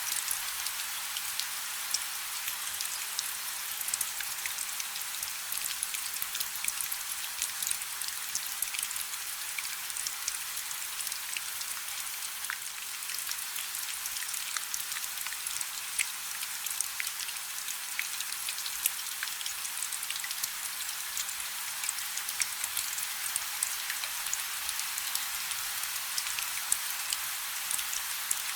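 Light rain falling steadily, a soft even hiss scattered with many small, sharp drop ticks.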